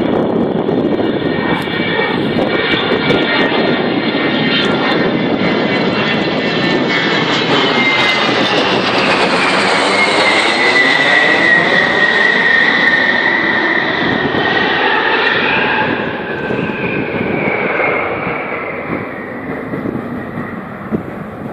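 Avro Vulcan's four Rolls-Royce Olympus turbojets passing overhead: a loud jet rumble with a high whine that drops in pitch about halfway through as the bomber goes by, then fades away.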